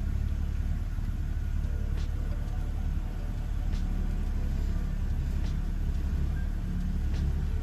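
BMW E90's engine idling in Drive, heard from inside the cabin as a steady low hum. The owner says this idle has been bouncing, but here it moves only slightly.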